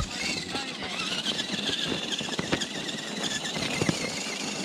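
Radio-controlled scale crawler truck's electric motor and gears whining, the high pitch wavering up and down with the throttle, with scattered clicks and knocks of the tyres and chassis on rock.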